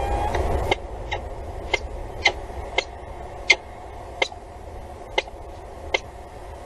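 A series of sharp, irregular clicks or taps, about nine in all, roughly one every half second to a second. A low rumble under them drops away early in the series.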